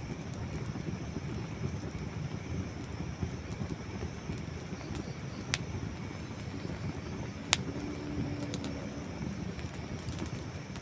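Wood campfire burning with a steady low rumble and sparse sharp pops and crackles from the burning logs; one pop about five and a half seconds in, and the loudest about seven and a half seconds in, followed by a few small ticks.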